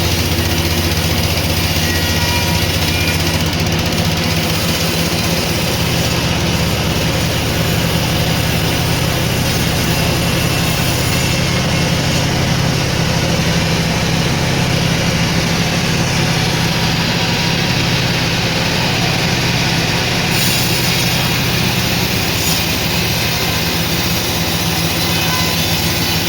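Sawmill machinery running steadily with a low, even hum.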